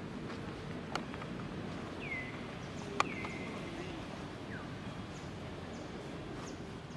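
Outdoor background with two short calls that drop quickly in pitch and level off, about two and three seconds in, and a few sharp clicks, the loudest about three seconds in.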